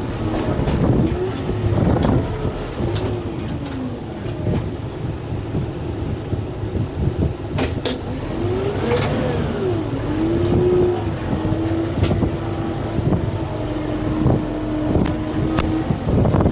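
Kubota M6-141 tractor's diesel engine working under load, its pitch rising and falling several times before holding steady, with scattered sharp cracks and knocks over the top.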